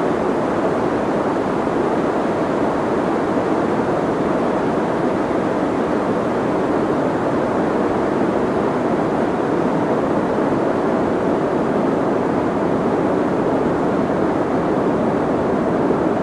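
Steady soft white noise, an unchanging hiss weighted toward the low-middle range, with its high end rolled off so it sounds muffled rather than sharp.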